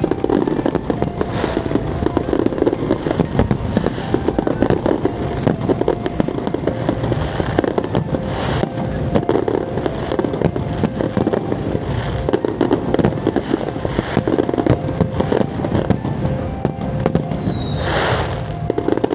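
Fireworks display going off continuously, a dense run of bangs, pops and crackles. About three-quarters of the way through, one whistling firework glides down in pitch before a bright burst.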